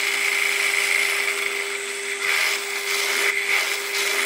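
Power tool running steadily at speed with a constant whine, boring a long thin hole lengthwise through a small wooden pipe handle.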